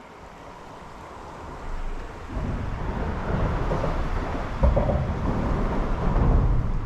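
Low, noisy rumble on the microphone that swells about two seconds in and stays loud.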